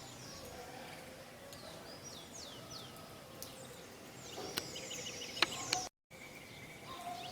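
Birds singing outdoors: quick high chirps that sweep downward, then a fast run of repeated notes, over a steady background hiss. The sound drops out completely for a moment about six seconds in.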